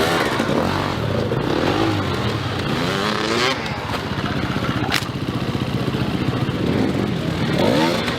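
Enduro dirt bike engine revving hard, its pitch climbing and dropping repeatedly through throttle and gear changes, with one sharp click about five seconds in.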